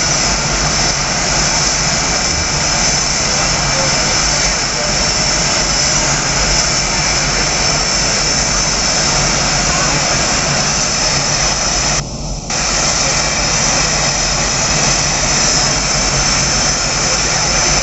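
Blue Angels F/A-18 Hornet jet engines running steadily with a high turbine whine over a dense roar, the sound dropping out briefly about twelve seconds in.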